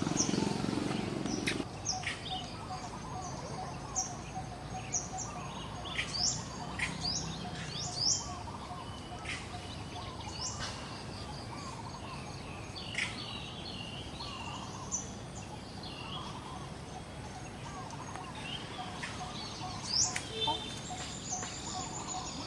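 Birds chirping: many short, sharp calls that sweep in pitch, scattered throughout, over a steady hiss of outdoor background noise.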